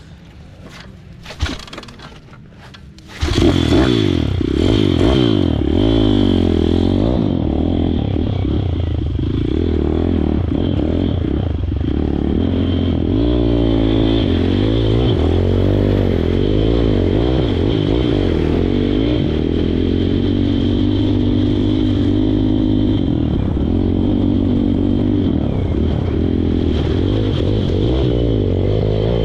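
Pit bike engine revving hard and unevenly, its pitch rising and falling. It starts suddenly about three seconds in, after a few knocks and clatters, and keeps going loud through deep mud.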